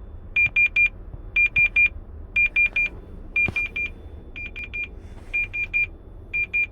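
Truck's electronic warning beeper sounding rapid groups of about four short, high beeps, repeating about once a second. It goes with an active DEF system fault code.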